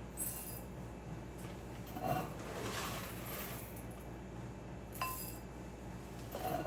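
Glass beakers clinking as they are handled, four light knocks spread out, one about five seconds in ringing briefly.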